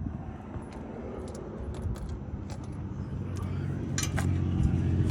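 Light metallic clinks and rattles of hand tools and a lug nut being threaded on by hand. A steady low hum builds up and grows louder toward the end.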